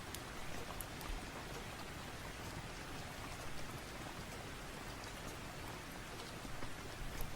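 Steady rain: an even hiss with scattered sharp ticks.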